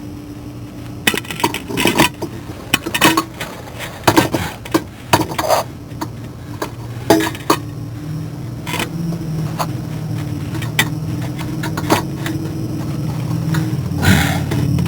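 Hand tools and metal parts clinking and knocking: a run of irregular sharp clinks through the first half, with fewer after that. A steady low hum comes in about halfway through.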